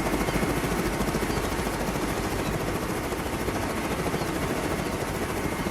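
Helicopter rotor chopping steadily in a fast, even beat.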